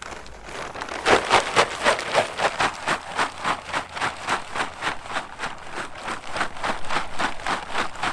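Footsteps walking at a steady pace, about three steps a second, growing louder about a second in.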